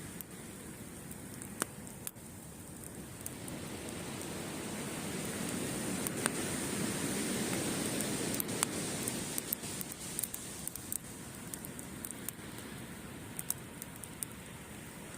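Ocean waves washing onto a beach, swelling and easing once, with the scattered sharp pops and crackles of a wood campfire burning.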